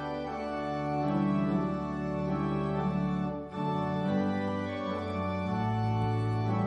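Organ playing slow, sustained chords that change every second or so, with a brief break between phrases about three and a half seconds in.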